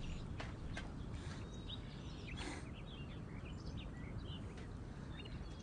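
Birds chirping in many short, quick notes over a steady low outdoor rumble.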